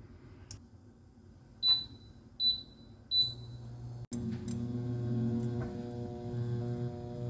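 Microwave oven keypad beeping three times as it is set, then the oven starts running with a steady electrical hum.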